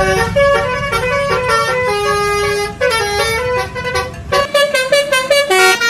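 Multi-tone telolet bus horn of the Basuri type playing a quick melody of stepped notes, over a low rumble that stops about four and a half seconds in.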